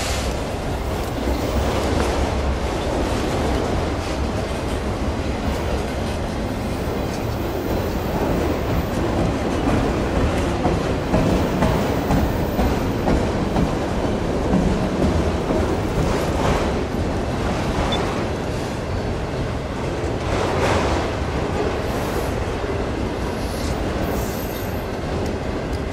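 Freight train of autorack cars passing close by: a steady rumble and clatter of steel wheels rolling on the rails, with a few brief surges of higher-pitched wheel noise.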